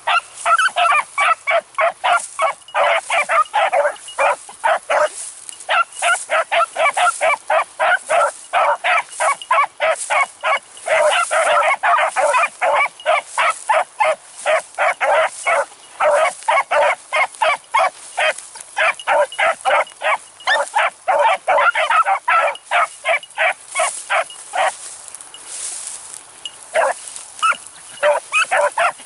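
Beagles baying in a steady run of quick, high barks, several a second, with a short lull near the end: hounds giving tongue while running a rabbit's scent trail.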